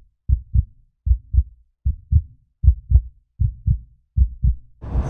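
Heartbeat sound effect: evenly paired low thumps, lub-dub, a little faster than one beat a second. Near the end it gives way to the steady rumble of road and traffic noise.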